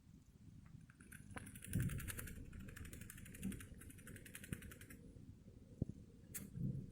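Domestic fancy rat grinding and chattering its teeth (bruxing): a faint, rapid run of fine clicks lasting about four seconds, with a few soft knocks.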